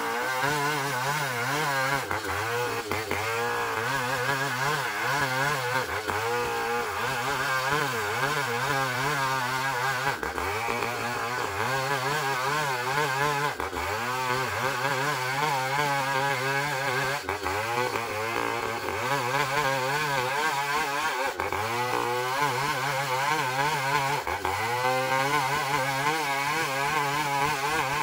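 Engine-driven sawmill saw cutting a long ulin (Bornean ironwood) log. The motor runs under load, and its note wavers up and down continually as the blade works through the hard wood.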